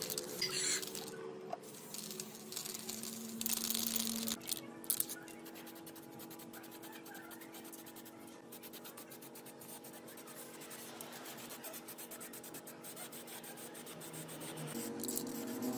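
Repeated rubbing and scraping strokes on a hard surface, like hand sanding or filing, with a faint steady hum beneath.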